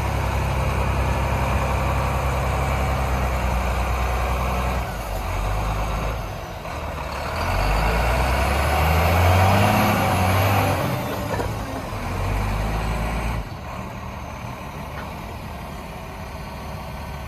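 A Volvo A25G articulated dump truck's diesel engine running. Its pitch and load shift, rising to a louder rev around the middle, then it settles back to a quieter idle near the end.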